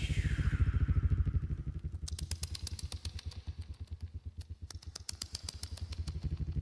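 A singer's voice imitating nature sounds: a low drone pulsing rapidly and steadily, joined about two seconds in by a fast run of sharp mouth clicks.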